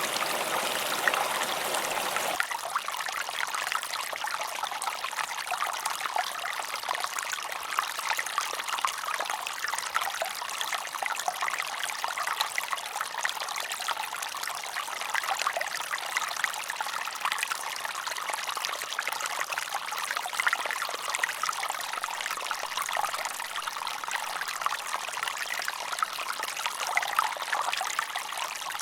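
Running water trickling and splashing steadily. About two seconds in, a fuller, deeper rush gives way abruptly to a lighter, thinner trickle.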